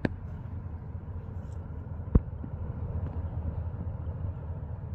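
Steady low rumble of a vehicle running, with two sharp knocks, the louder one about two seconds in.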